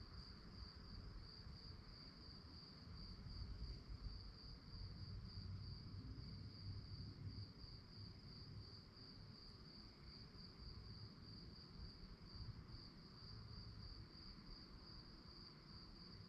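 Crickets chirping in a continuous high, finely pulsing trill, faint, over a low rumble.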